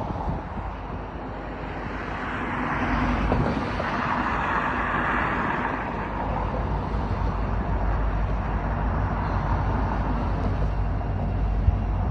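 Union Pacific freight train's diesel locomotives running, a steady low rumble that builds a little over the first few seconds.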